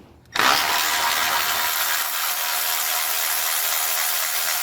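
Milwaukee 12-volt cordless ratchet running continuously for about four seconds, starting a moment in, driving on a stubborn water pump bolt that doesn't want to come out.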